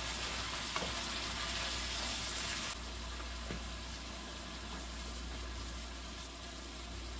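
Shrimp in butter sizzling in a frying pan with the burner just switched off. The hiss drops to a quieter level a little under three seconds in.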